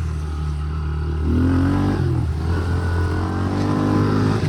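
Honda CRF110's small single-cylinder four-stroke engine running hard on the track, revving up about a second in and again through the second half.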